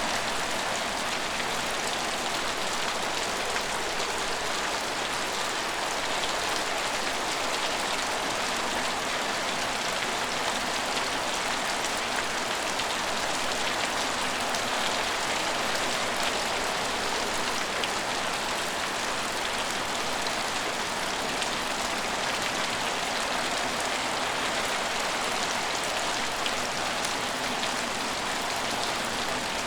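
Steady rain falling on an empty station, an even hiss with fine scattered drop ticks.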